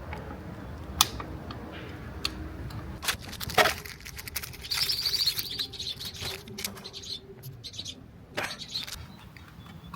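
A bird chirping in a quick trill for a second or two near the middle, over steady low background noise, with several sharp clicks and knocks scattered through.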